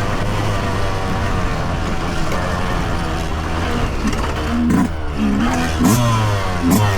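2023 Yamaha YZ125's two-stroke 125 cc engine under way on a dirt trail, running fairly steadily at first, then revving up and dropping back about once a second in the second half as the throttle is worked.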